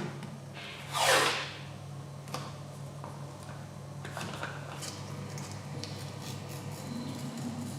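A single scraping swish about a second in, then a few light clicks and taps of parts or tools being handled, over a steady low hum.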